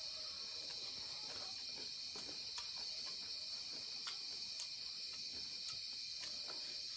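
A steady, high-pitched insect chorus, like crickets or cicadas chirring, with scattered faint clicks.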